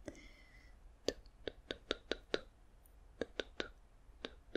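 Close-miked ASMR clicks: about ten short, sharp clicks in quick irregular runs, with a faint ringing tone just before the first of them.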